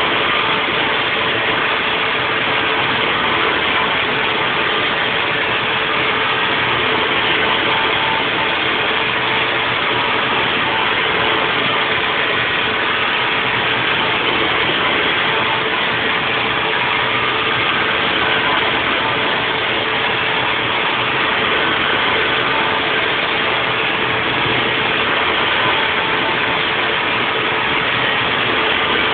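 Haas VF4 CNC vertical mill running a 3D machining cut: a steady mechanical noise with a constant mid-pitched tone.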